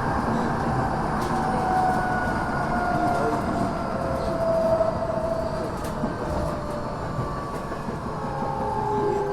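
Onboard running sound of a Tokyo Metro 6000 series electric train: wheel and track rumble under several whining tones from its Mitsubishi IGBT-VVVF inverter and traction motors. The tones slowly fall in pitch as the train slows.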